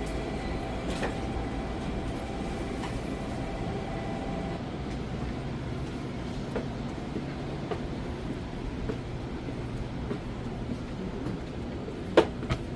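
Steady low hum inside a Kamome shinkansen car standing at the station, with faint steady tones that stop about four seconds in. A few faint ticks are heard, and one sharp click comes near the end.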